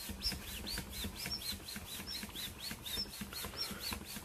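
A small bird chirping fast and without a break: short, high notes, each rising and then falling, several a second.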